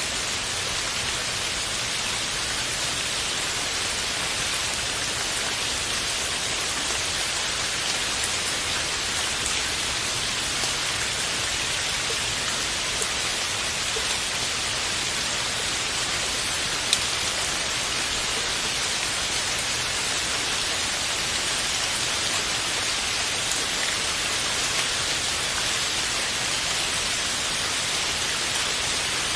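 Steady rain falling on a surface, an even hiss of drops at a constant level, with one brief sharp click partway through.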